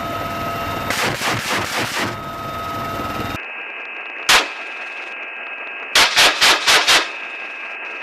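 Helicopter door-mounted machine gun firing: a few shots over steady helicopter cabin noise about a second in, a single loud shot a little after the middle, then a burst of about five shots about two seconds later, over a steady hiss with a high tone.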